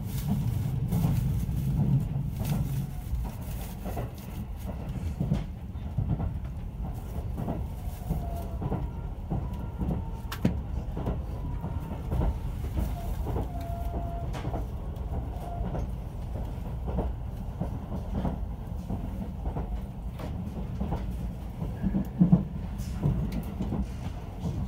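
Inside the cabin of a JR 373 series electric limited express train running at speed: a steady rumble of wheels on rail with frequent rail-joint clicks, and a louder knock near the end.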